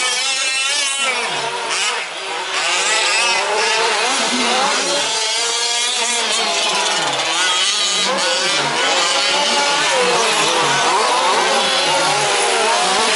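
Several 1/5th-scale 4WD RC trucks racing together, their small petrol two-stroke engines buzzing and constantly revving up and down over one another.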